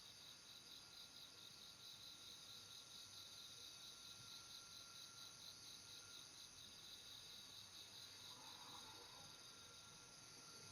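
Faint insect chirping in a rapid, even pulse that fades out near the end, over a steady faint hiss from the trail camera's microphone.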